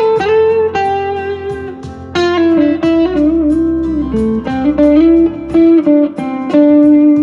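Electric guitar lead from a Squier Jaguar's single-coil pickups through a JHS NotaKlon overdrive pedal into a Vox AC10 amp. It plays sustained single notes with bends and vibrato over a backing track with a steady drum beat.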